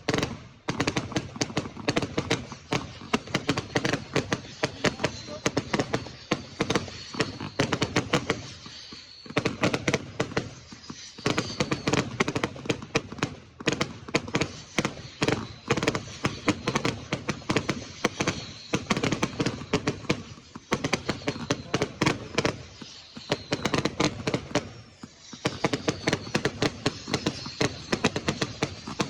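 Fireworks going off in quick succession, a dense run of many bangs and cracks a second, with a few brief lulls.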